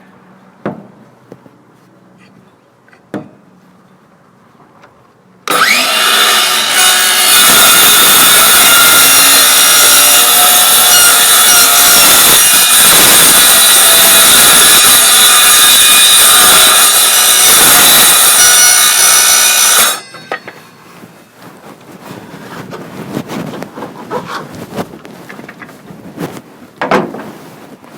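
Power saw cutting through plywood: it starts abruptly a few seconds in, runs steadily at full load for about fifteen seconds, then cuts off suddenly. A few light knocks come before and after the cut.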